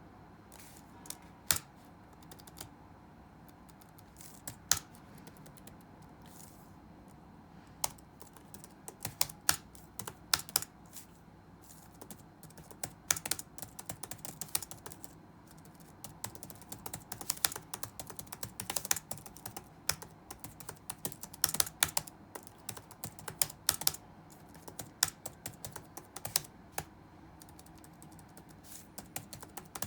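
Typing on a computer keyboard: a few scattered keystrokes, then from about eight seconds in, irregular runs of quick typing broken by short pauses, over a faint steady room hum.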